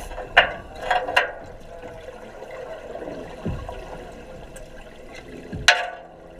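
Water bubbling and gurgling, picked up underwater in a diving tank, over a steady hum, with sharp clicks a little after the start and again near the end.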